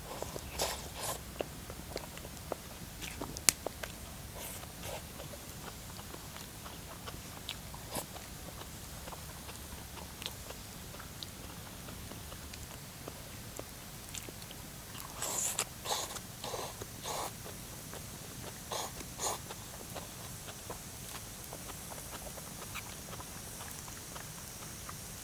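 Campfire wood burning, with irregular sharp crackles and pops. The loudest pop comes about three and a half seconds in, and a burst of crackling follows around the middle to later part.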